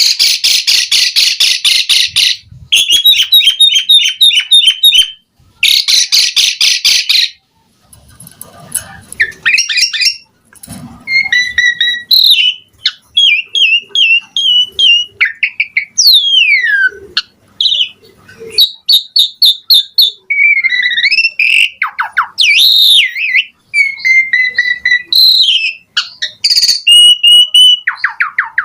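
Asian pied starling singing: three loud runs of fast, rapidly repeated chattering notes in the first seven seconds, then a long varied string of whistles, slurred notes and rising and falling glides, rich in mimicked phrases.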